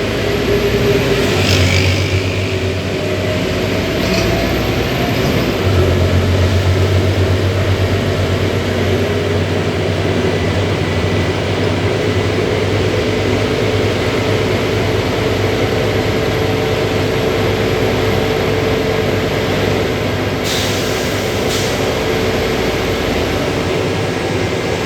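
Scania city bus running along with its engine giving a steady low drone, heard from on board. A couple of brief sharp clicks or rattles come about 20 seconds in.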